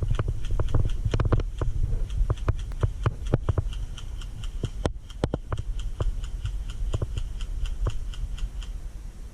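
Irregular sharp clicks and knocks over a low rumble, with a steady high-pitched ticking about three to four times a second from a couple of seconds in until near the end.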